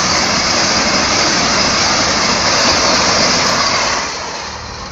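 Vande Bharat Express electric train passing close at high speed: a steady rush of air and rail noise that drops away about four seconds in.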